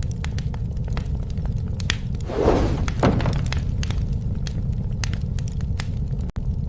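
Wood fire burning with a steady low rumble and frequent sharp pops and crackles. Near the middle comes a louder burst of noise, about a second long with two peaks.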